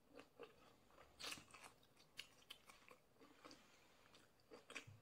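Faint chewing of a mouthful of food, picked up close by a clip-on microphone: scattered soft wet clicks and small crunches, with a louder bite about a second in and another near the end.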